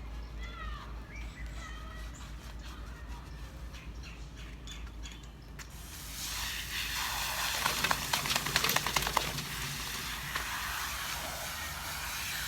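Small birds chirping for the first few seconds, then a steady hiss of spraying water starts about six seconds in and runs on, with a rapid crackling spatter in the middle.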